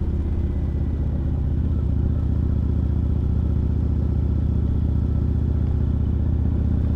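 Kawasaki Vulcan Nomad 1600's V-twin engine running steadily as the motorcycle cruises along, with no change in speed.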